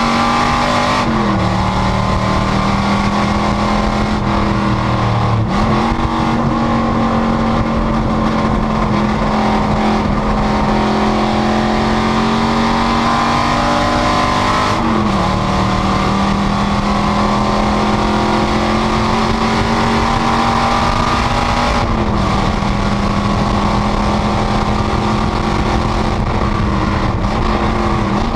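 Panoz GTS race car's V8 engine running hard at race pace, its note holding steady for long stretches and dropping and rising in pitch a few times as the revs change, over constant road and wind noise.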